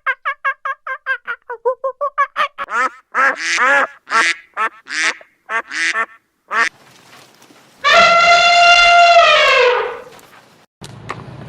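Animal calls: a fast run of short repeated calls, then louder, slower calls, then one long held call about eight seconds in that drops in pitch as it ends.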